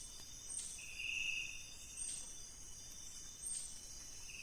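Night chorus of tropical forest insects: a steady, high-pitched shrilling of crickets and other insects. A lower call rises out of it about one second in and again near the end. Short sharp chirps cut in roughly once a second.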